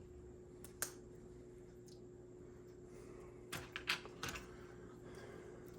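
Small, sharp clicks of plastic and metal slot-car parts being handled and snapped together as the rear axle assembly is fitted into an HO-scale AFX Super G-Plus chassis: one click about a second in, then a quick cluster of several clicks a little past the middle.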